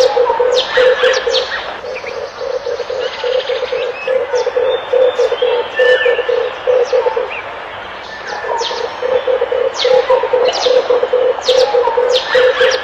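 Red turtle dove cooing in long runs of rapid, rough pulsed notes, with a short break just after the middle. Other small birds chirp with short high notes over it.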